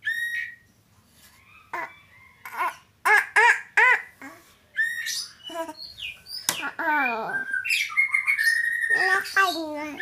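Caged oriental magpie-robin giving repeated harsh squawks and calls, mixed with a young child's high-pitched voice. Near the end comes one long, held high call.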